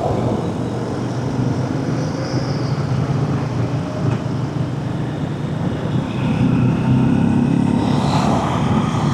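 Honda CRF300 dual-sport motorcycle's single-cylinder engine running, a steady engine note under a noisy hiss, growing stronger in the last few seconds.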